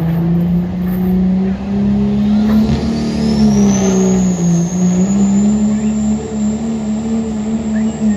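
Pulling diesel truck's engine running hard under full load. A high whine rises about three seconds in and then holds steady, the turbocharger spooled up.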